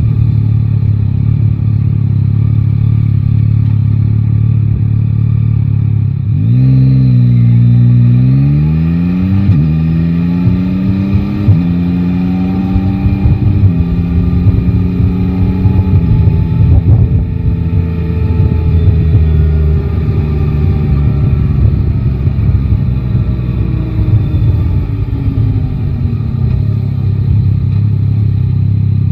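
Yamaha Tracer 9 GT's three-cylinder engine idling, then pulling away about six seconds in and revving up through four quick upshifts, each marked by a sudden drop in pitch. It then runs along more steadily, the pitch slowly falling as the rider eases off.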